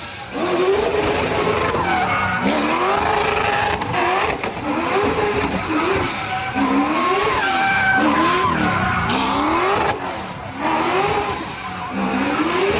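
A car engine revving hard while drifting, its pitch rising and dropping again about once a second over the hiss of tyres squealing and skidding.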